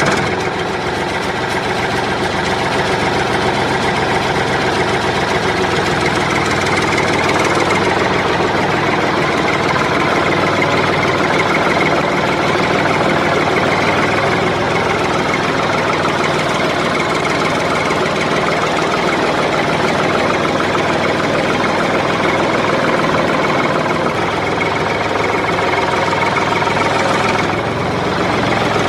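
Tractor engine running steadily, with a brief slight drop in level near the end.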